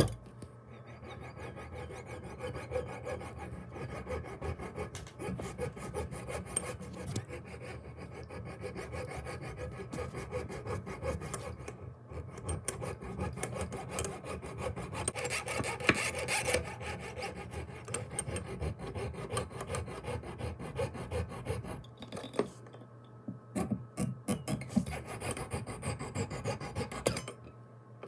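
Hand filing or sanding in quick, rough back-and-forth strokes on a small part, almost continuous, louder for a couple of seconds around the middle, and stopping about a second before the end.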